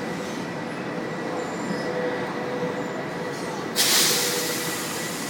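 Train running at a station platform, a steady rumble with faint steady tones. About four seconds in, a sudden loud hiss breaks out and fades away over about a second and a half.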